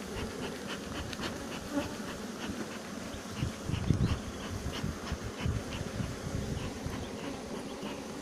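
Honey bees buzzing steadily in numbers around their colony. Irregular low rumbles come and go beneath the buzz.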